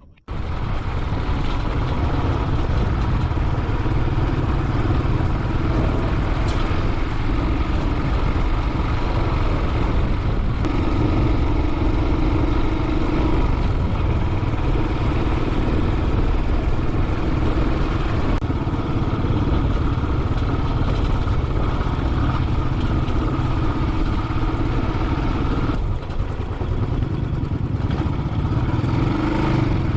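Royal Enfield Classic 500's single-cylinder engine running steadily on the move, with a dense low thrum and a slight dip in level and pitch near the end.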